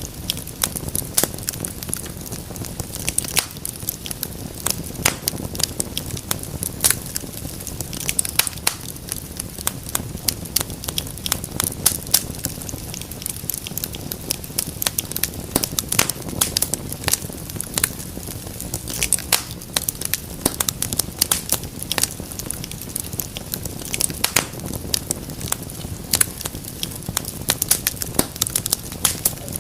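Wood fire crackling in a fireplace: a steady stream of irregular sharp pops and snaps over a low, even rumble of flames.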